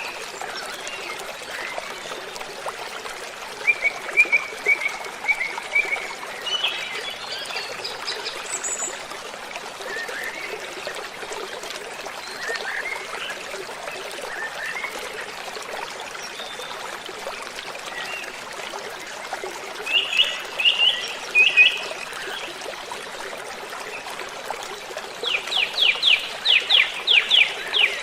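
Waterfall rushing steadily, with birds singing over it in short phrases of chirps and whistles. Near the end a bird gives a quick run of about a dozen downward-sweeping notes.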